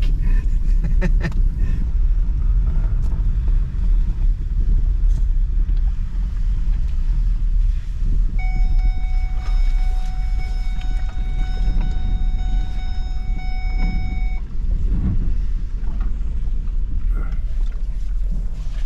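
Flood-soaked Ford Taurus running with a steady low rumble. A steady high tone sounds for about six seconds in the middle.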